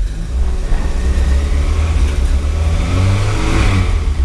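Toyota 4A-G four-cylinder engine running with the newly fitted TL70 six-speed in second gear, driving the wheels. The revs rise briefly about three and a half seconds in, then settle.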